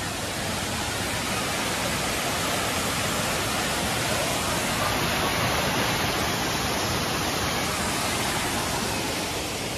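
Steady rushing of a waterfall, an even wash of falling water that swells a little midway and eases near the end.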